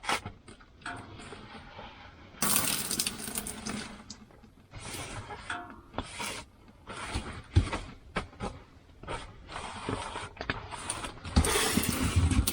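The hut's ceiling covering being handled and cut open where water has pooled: a series of rustling, crackling bursts with scattered clicks, and a longer, louder burst near the end.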